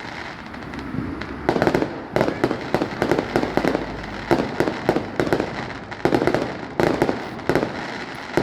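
Fireworks display: after a brief lull, bursts of rapid sharp bangs and crackles come in quick clusters, several a second.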